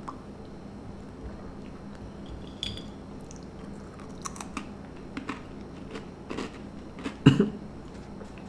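Chewing of a Teddy Graham, a small crunchy honey graham cracker, heard close as a string of small crisp crunches, the loudest a low thump about seven seconds in.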